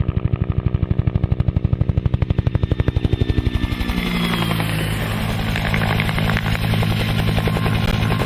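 Helicopter rotor and turbine: rapid rotor chopping at about a dozen beats a second with a faint rising whine, turning into a steadier, denser drone about four seconds in.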